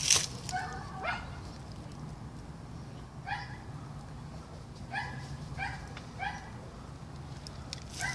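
Dog barking in short single barks, about seven of them spaced irregularly, over a steady low hum.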